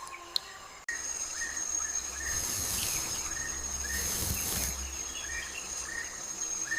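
Rainforest insect chorus, a steady high-pitched whine cutting in about a second in, with short chirping calls repeating about every half second. Two brief hissing swells come partway through.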